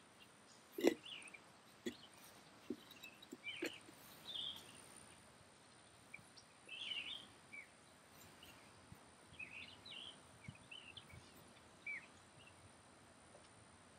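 Birds chirping in short, scattered calls over a faint steady background, with a few sharp knocks in the first four seconds, the loudest about a second in.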